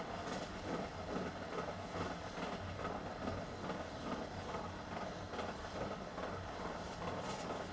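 A moving train's steady running noise, a continuous rumble with faint irregular clatter.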